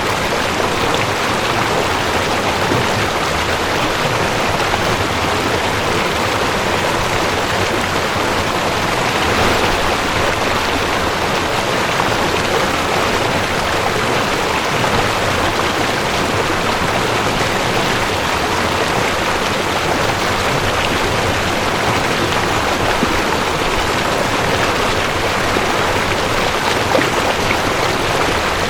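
Mountain stream rushing over rocks: a steady, even water rush.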